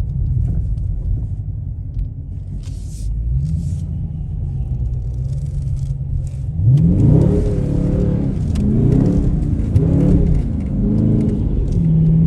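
Car engine running with a steady low rumble while cruising. About seven seconds in it revs up hard, its pitch climbing and dropping several times as the car accelerates, then it settles into a steady drone near the end.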